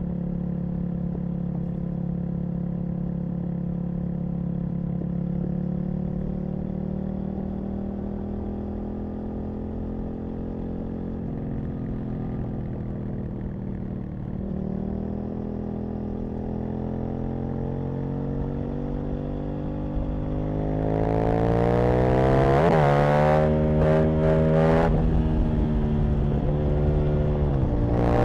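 Aprilia RSV Mille V-twin motorcycle engine heard from the rider's seat: it runs steadily with revs easing off for the first half, then accelerates hard with the pitch climbing, shifting up two or three times near the end as wind noise rises.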